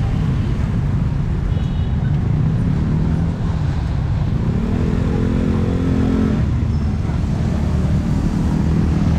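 Motor vehicle engines running steadily. About halfway through, a louder engine note rises and holds for nearly two seconds, then fades.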